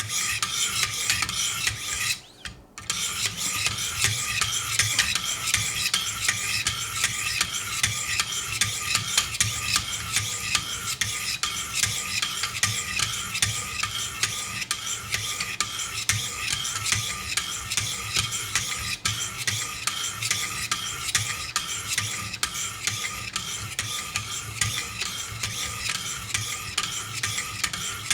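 Wicked Edge guided sharpening system's stones being stroked along both sides of a clamped knife blade: continuous rhythmic scraping, with a brief pause about two seconds in. This is the stage on the grit below 400, finishing off an edge that already carries a burr.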